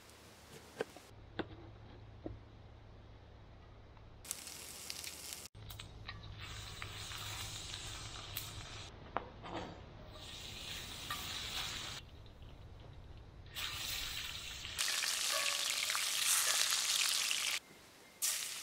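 Garlic and pork frying in hot pork fat in a pan over a campfire: a sizzle that comes in about four seconds in after a few light clicks, in stretches that start and stop abruptly, loudest near the end. The fat is hot enough that the garlic fries the moment it goes in.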